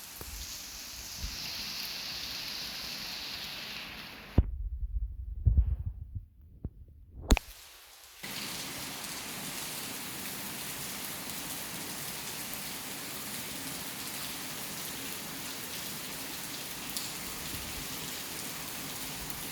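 Torrential rain pouring steadily. A few seconds in, the rain cuts out and a stretch of muffled low thumps with a couple of sharp knocks takes its place. Then the steady downpour returns.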